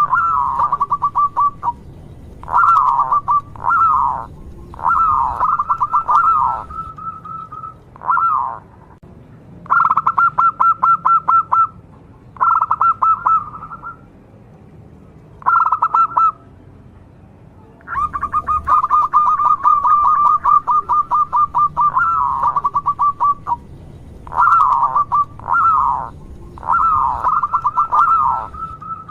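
Local zebra dove (perkutut) singing: bouts of rapid, evenly repeated staccato coo notes and short drooping coos, broken by brief pauses.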